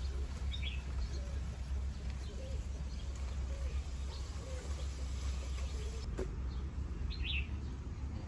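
Outdoor ambience of small birds chirping now and then, with two clearer chirps about half a second in and about seven seconds in, over a steady low rumble, and a single sharp click about six seconds in.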